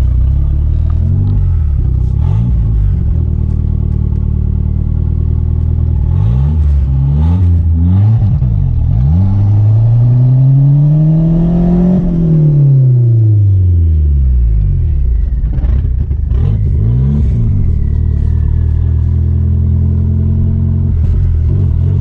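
Chrysler Conquest's turbocharged 2.6-litre G54B four-cylinder engine running under way: a few short blips of revs, then one long climb over about four seconds and a fall back, then steady running. This is an engine that the owner says still runs rough and stumbles after acceleration.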